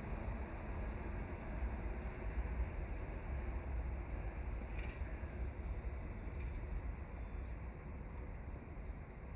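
Steady low rumble of an ÖBB Taurus electric locomotive and its passenger coaches rolling away through the station, fading slightly towards the end. Short high bird chirps come several times over it.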